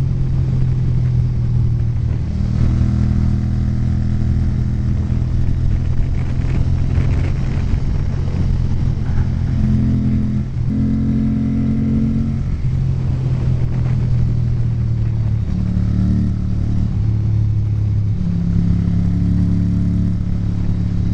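Ducati 900SS air-cooled V-twin running under way at road speed, heard from on the bike, its engine note stepping up and down in pitch a few times partway through.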